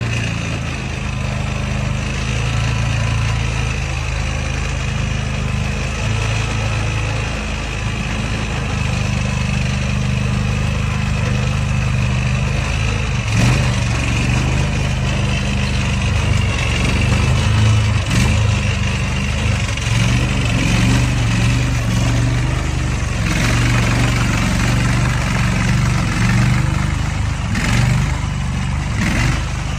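The 23 HP gasoline engine of a Hurricane HRC700 stand-on mini skid steer running steadily, with a few short knocks and brief surges of higher-pitched noise in the second half.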